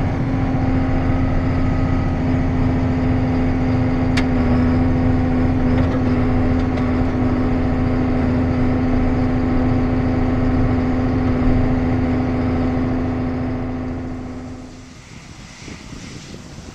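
Farm tractor engine running at a steady speed, with a single click about four seconds in. The engine sound drops away sharply about fourteen seconds in.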